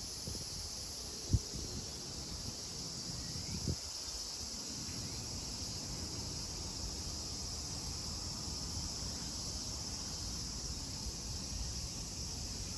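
Cicadas droning steadily in a high-pitched chorus over a low rumble. A sharp low thump about a second and a half in is the loudest sound, with a softer one a couple of seconds later.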